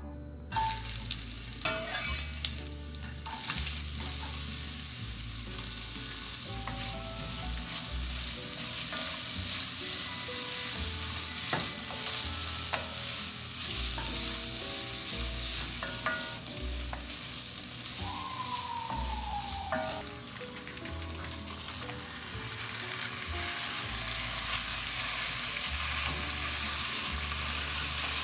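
Chopped onion sizzling as it fries in a pan, with a utensil stirring and knocking against the pan a few times.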